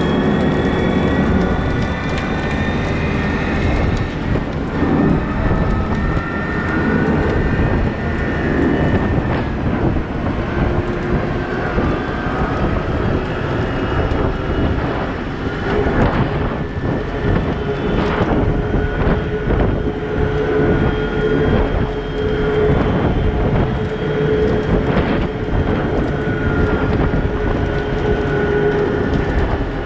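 Heavy diesel engine of a Cat 972M XE wheel loader working under load, its pitch rising and falling as it revs, with scattered knocks and clatter. A steady whine holds from about halfway through to the end.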